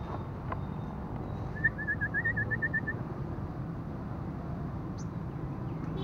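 A bird gives a quick trill of about ten short notes lasting just over a second, over a steady low rumble of road traffic.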